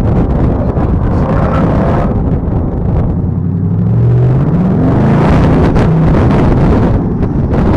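Car engine running under road and wind noise; about four seconds in it accelerates, its pitch rising, then settles into a steady drone.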